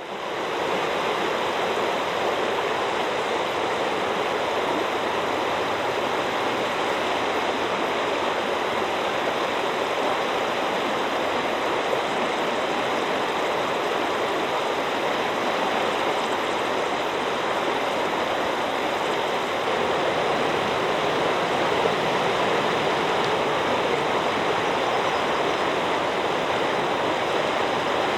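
Hurunui River water flowing steadily, an even rushing noise that fades in at the very start.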